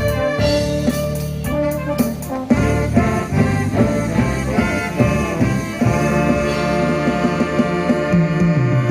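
An amateur ensemble playing instrumental music live: a melody on wind instruments over a band backing, with cymbal or drum hits in the first couple of seconds.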